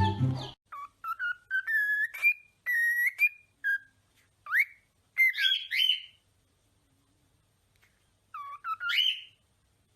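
A series of short, high-pitched, whistle-like animal calls, several sliding sharply upward, in groups separated by pauses. Background music cuts off just before the calls begin.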